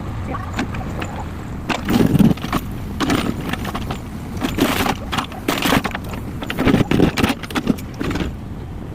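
Cat 424B2 backhoe loader's engine running while a bucketload of hard material crashes and rattles into a tractor trolley in a run of loud bursts from about two seconds in until near the end.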